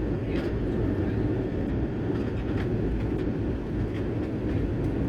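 Steady engine and airflow noise heard inside an airliner cabin, a deep even roar with a few faint rattles.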